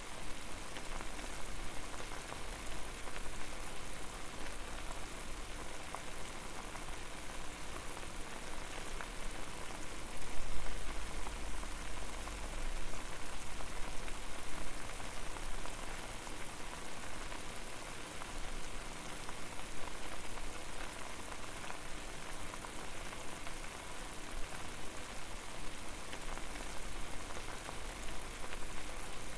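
Water boiling over a fire, a steady bubbling hiss with a brief louder low surge about ten seconds in.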